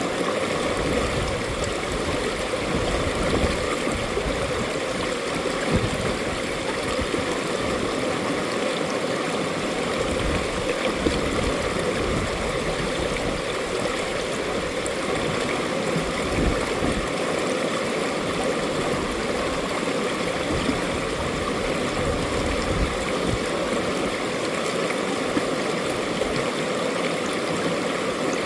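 Mountain valley stream flowing over rocks: a steady, even wash of running water with a fluttering low burble underneath.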